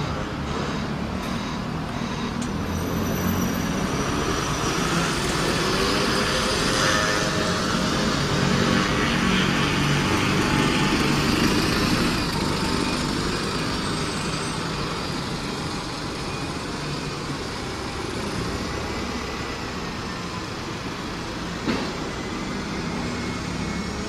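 A large vehicle passes close by. Its engine and running noise build to a peak around the middle, then fade away, with a short knock near the end.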